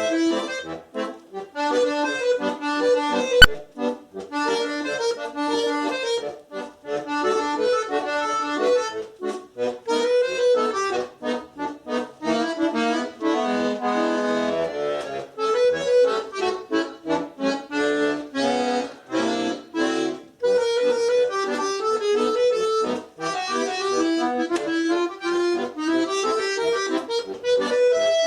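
Solo accordion playing a fast-moving tune with melody and chords. There is a single sharp click about three and a half seconds in.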